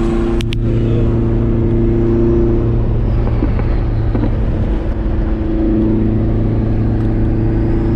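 Turbocharged Honda H22A engine droning steadily at cruise, heard from inside the car's cabin over road noise. The drone eases about three seconds in and picks back up near six seconds. There is a sharp click about half a second in.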